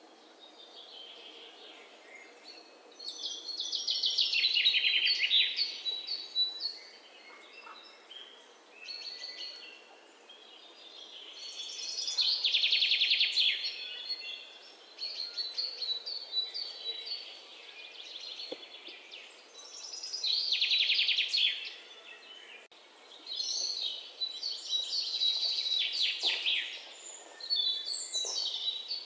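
Songbirds chirping and singing. A fast trilling song of two to three seconds rises out of the scattered chirps four times, about every eight seconds.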